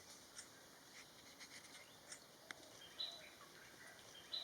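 Faint forest ambience with scattered soft ticks and a few short, high bird chirps, one about three seconds in and another near the end.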